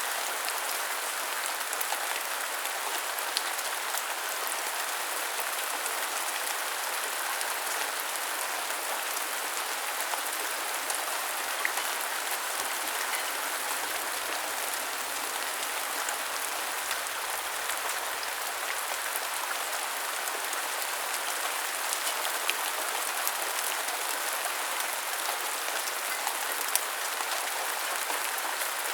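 Steady rain falling on hard surfaces: an even hiss of dense drops, with a few sharper individual drop hits scattered through it.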